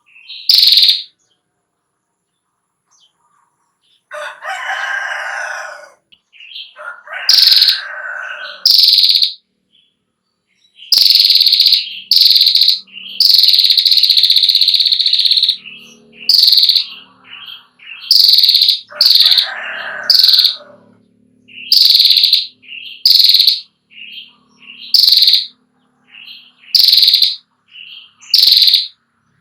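Female prinia (prenjak) giving its 'ngetir' call: high, rapid trills in repeated bursts of about a second, with one long trill of about five seconds near the middle. A rooster crows in the background a few times.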